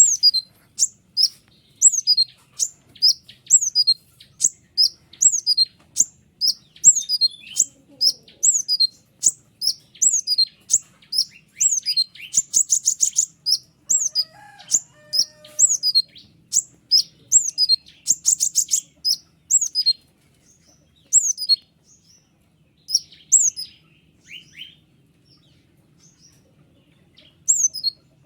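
Konin songbird singing a long series of sharp, high, falling notes about two a second, with a fast rattling trill about 12 seconds in and another about 18 seconds in. The song thins to scattered notes in the last third.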